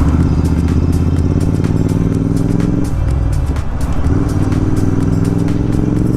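Royal Enfield Continental GT 650's parallel-twin engine through an aftermarket Gursewak exhaust, running under throttle on the move; its pitch drops briefly about three seconds in, then picks up and climbs again.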